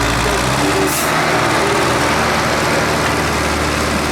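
Tractor engine running steadily, with a short hiss about a second in.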